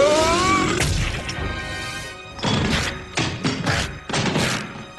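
Cartoon soundtrack music and sound effects: a rising pitched glide at the start, a held chord, then a run of about seven noisy crash-like hits, roughly three a second.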